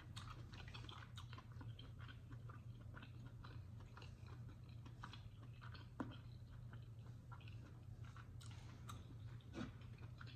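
Faint close-up chewing of chitterlings (pork intestines) in hot sauce, with many small wet mouth clicks over a low steady hum. A sharp tap comes about six seconds in, and another shortly before the end.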